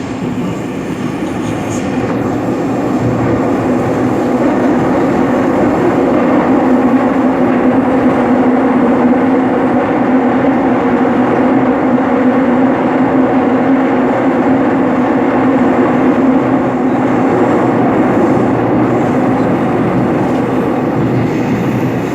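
Seoul Metro Line 7 subway train running between stations. The rumble of the wheels and the running noise builds over the first few seconds as the train picks up speed, then holds steady with a constant low hum underneath.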